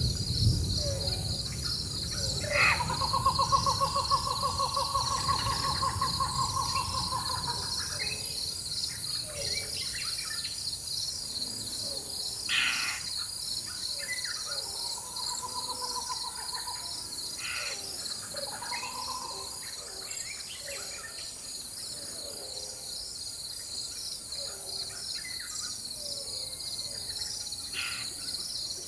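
Rainforest ambience: a steady, pulsing high chorus of insects, with a bird giving a long trilled call a few seconds in and shorter trilled calls around the middle. A low distant thunder rumble dies away at the very start.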